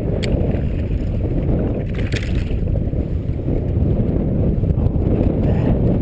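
Wind buffeting the microphone: a steady, loud low rumble. A short click comes just after the start and a brief hiss about two seconds in.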